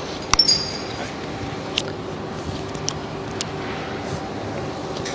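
Metal tools or parts being handled: a sharp metallic clink with a short ring about a third of a second in, then a few light ticks, over a steady low hum.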